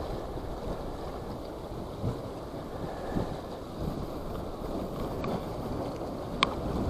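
Strong wind buffeting the microphone: a steady low rumble with small gusts. A single sharp click about six and a half seconds in.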